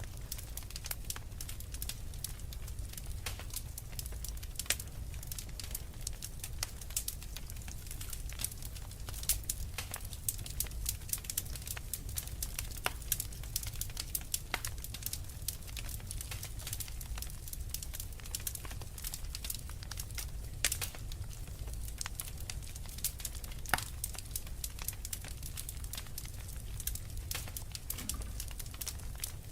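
Fire crackling in a fireplace: irregular sharp pops and snaps, some louder than others, over a low steady rumble.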